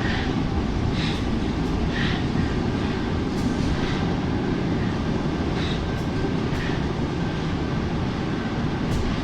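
Paris Métro train running with a steady, dense rumble of steel wheels on rail, with brief high squeaks from the wheels every second or two.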